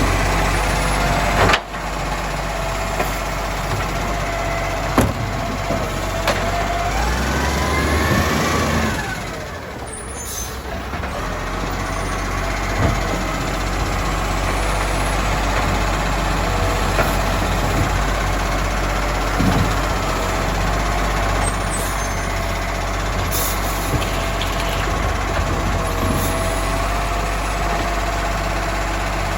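Garbage truck's diesel engine running steadily. About a quarter of the way in it revs up over a couple of seconds, then drops back and settles.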